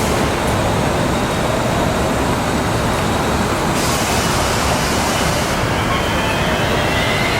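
Loud, steady rumbling noise of a passing vehicle, with faint high-pitched squealing tones coming in near the end.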